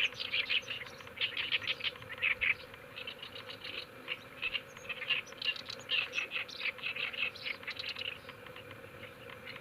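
Oriental reed warbler singing its loud song, a rapid run of chattering notes repeated in short phrases.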